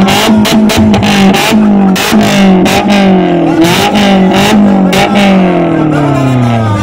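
A car engine revved hard and held at high revs with a rapid, uneven stutter, then the revs drop away near the end.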